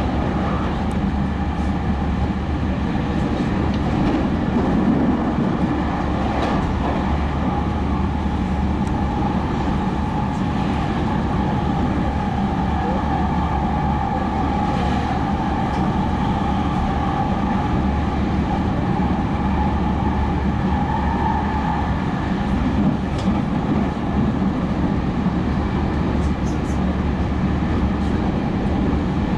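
JR Central 315 series electric train running at speed, heard inside the passenger car: a steady rumble of wheels on rail with a low hum and a few faint rail clicks. A faint steady whine runs through the middle and fades out about twenty seconds in.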